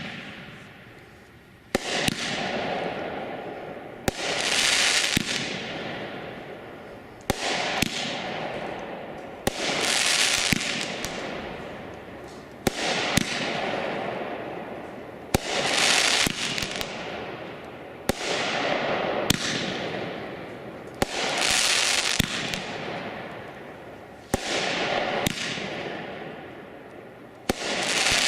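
A Shogun consumer fireworks cake ("Out to Win") firing shot after shot, about every two to three seconds. Each shot is a sharp bang followed by a fading hiss.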